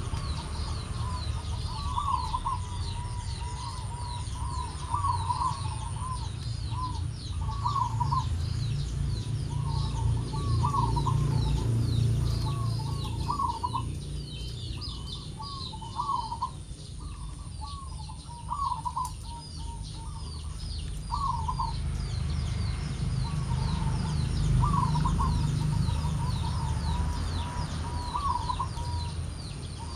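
Zebra doves (perkutut) cooing in short, repeated staccato phrases every second or two, pausing for several seconds midway, over a steady stream of rapid high chirps from small birds and a low rumble.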